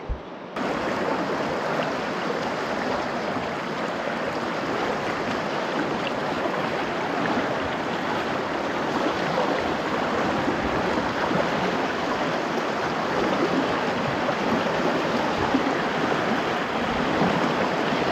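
River water rushing steadily, like a stream running over a shallow riffle; it starts abruptly about half a second in.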